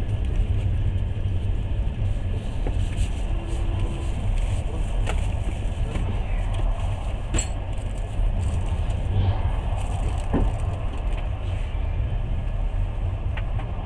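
Passenger train running, heard from inside the carriage: a steady low rumble of wheels and running gear, with a few sharp knocks, the sharpest about seven seconds in.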